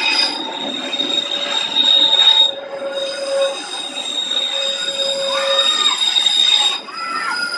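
Passenger train coaches rushing past close by, with the rumble and rush of the wheels on the rails and a steady, high-pitched squeal from the wheels. Near the end, brief rising-and-falling tones sound over the squeal.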